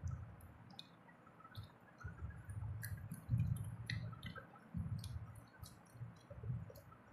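Close-up eating sounds of momos being chewed: wet clicks and lip smacks scattered throughout, with bursts of soft low thudding.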